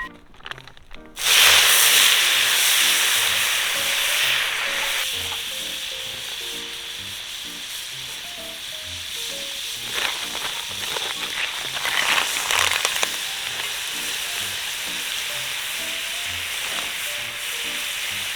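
Food hitting hot olive oil in a pan, starting to sizzle loudly about a second in and then frying steadily, with spells of louder crackling later on.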